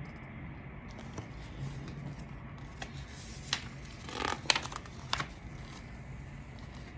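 Paper rustling and a few light clicks from a picture book's page being turned and handled, mostly in the middle, over a steady low room hum.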